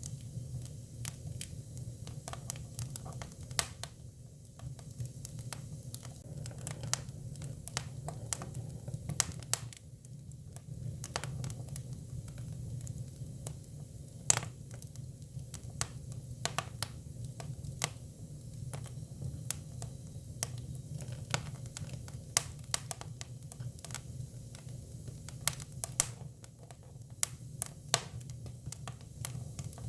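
Hinoki (Japanese cypress) firewood burning, with irregular sharp crackles and pops over a steady low hum.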